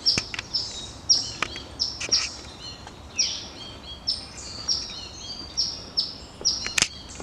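Songbirds chirping over and over, each short high note falling quickly in pitch, a couple of notes a second. A few sharp knocks break in, the loudest near the end.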